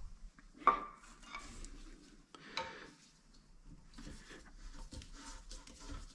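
Hard clinks and knocks from handling tools and parts during a toilet installation. There is a sharp clink under a second in, another about two and a half seconds in, and small rattles between them.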